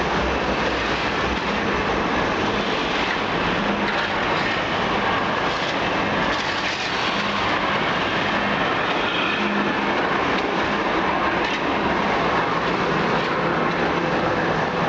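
Industrial machinery running: a steady, loud rattling clatter with a faint hum that comes and goes.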